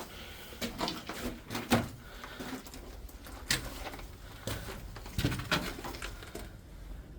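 Irregular scrapes and knocks, about a dozen uneven strokes that die away near the end, typical of people scrambling over rock in a cave.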